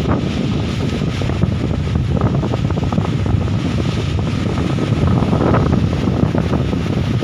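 Strong gusting wind blasting straight into a phone's microphone, a heavy low rumble that keeps surging and easing.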